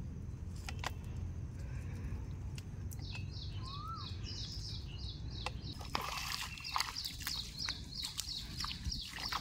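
Birds calling: a quick run of high chirps about three seconds in, then a longer run of repeated chirps through the second half, and one short up-and-down whistle just before four seconds. Under them runs a low steady rumble, with a few sharp clicks.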